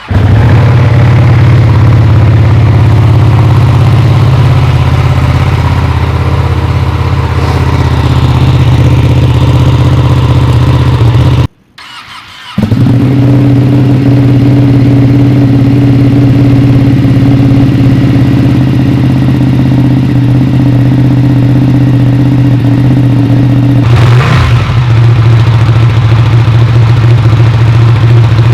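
Ducati Panigale 959's Superquadro L-twin running steadily through a Danmoto slip-on exhaust: stainless tubing, titanium mufflers, catalytic converters deleted. The sound cuts out for about a second a little before halfway, then resumes. Near the end there is one quick rev that rises and falls.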